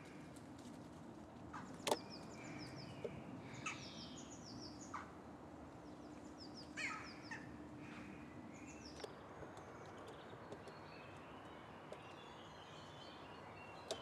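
Faint, scattered bird chirps and short calls, with a few light clicks, the sharpest about two seconds in.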